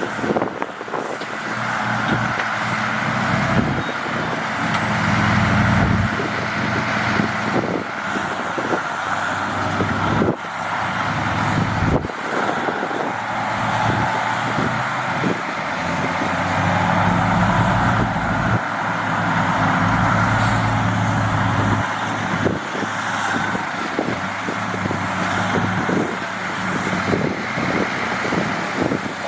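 Heavy diesel earthmoving machinery running, the engine working harder twice as the load comes on, with scattered clanks and knocks.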